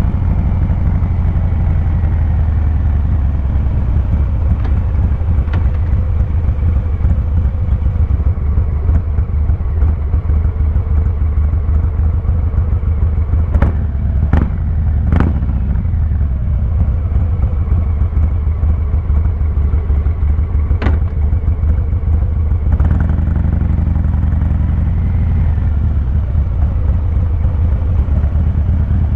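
Harley-Davidson Fat Boy 114's Milwaukee-Eight 114 V-twin running steadily with a deep, low exhaust note. Three sharp clicks come close together about halfway through, and another follows a few seconds later.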